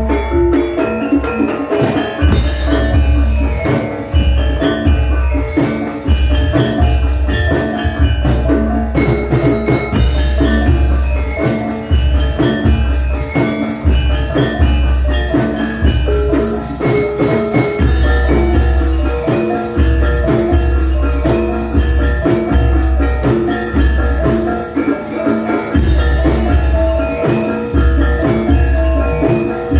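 Javanese gamelan ensemble playing a gending: bronze metallophones and gongs ring out a quick, steady interlocking melody over heavy, deep drum and gong beats, loud and amplified.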